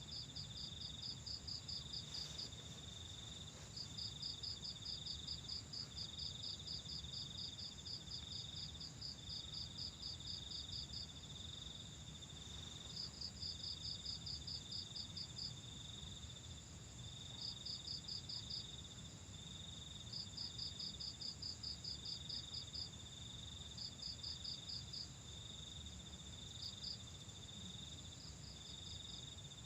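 Night insects calling: one sings in runs of rapid high pulses a few seconds long with short pauses between, over a steadier, broken trill from another, with a low steady rumble underneath.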